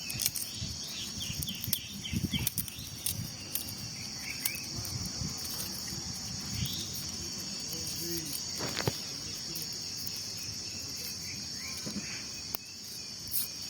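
Insects shrilling steadily at a high pitch, with scattered light knocks and taps of ingredients being handled and a few faint chirps.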